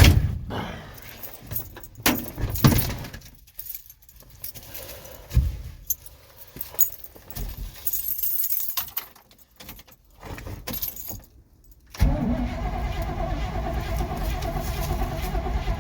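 Keys jangling and scattered clicks and knocks, then, about twelve seconds in, the 1971 Chevy C10 is suddenly cranked over on its starter, a steady running sound, with no choke set and the cold engine not yet catching.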